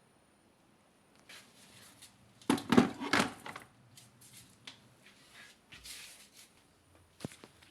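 Handling noises: scattered clicks and knocks with short scrapes, the loudest a burst of clattering and scraping about two and a half to three and a half seconds in.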